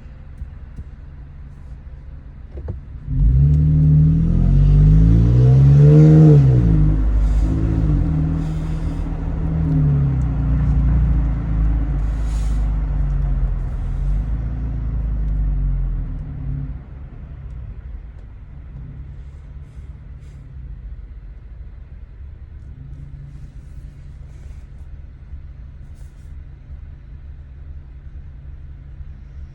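Toyota Tacoma TRD Pro's 3.5-litre V6 through an MBRP 3-inch cat-back exhaust while driving: running quietly, then about three seconds in it gets much louder under acceleration, its pitch climbing and dropping several times through the gear changes. About sixteen seconds in it settles back to a quieter steady cruise.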